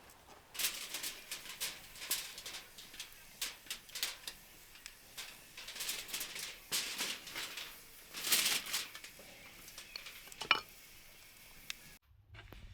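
Wood campfire crackling and popping in irregular sharp snaps, cutting off abruptly about a second before the end, where a low steady hum takes over.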